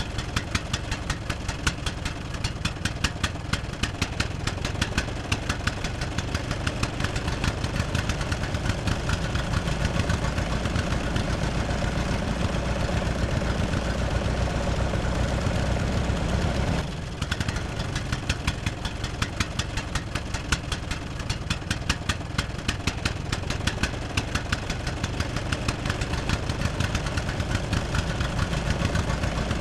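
A small motor running steadily with a rapid, regular clicking over a low hum. It breaks off briefly about seventeen seconds in, then carries on.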